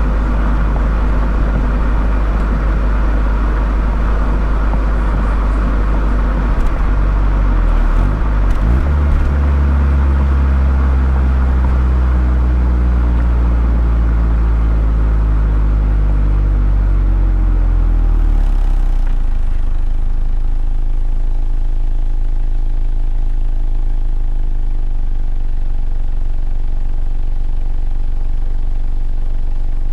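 Mazda ND Roadster's four-cylinder engine and exhaust, fitted with a KPC aftermarket muffler, heard while driving. There is a shift about eight seconds in, then the engine note falls steadily as the car slows, and it settles into a steady low drone for the second half.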